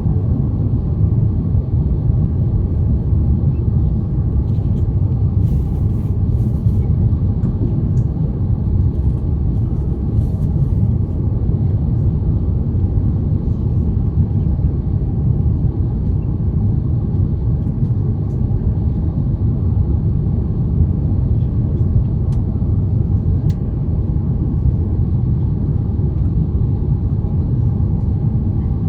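Steady cabin rumble of an Airbus A350-900 on approach to landing: engine and airflow noise heard from inside the passenger cabin, even and unchanging.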